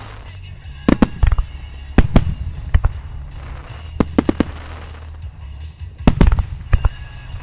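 Starmine salvo of aerial firework shells bursting in quick clusters of sharp bangs, about a second in, around two seconds, around four and just past six seconds. Music from loudspeakers plays underneath.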